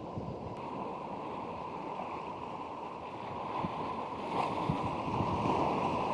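Strong wind buffeting the microphone over the steady wash of surf, getting a little louder about four seconds in.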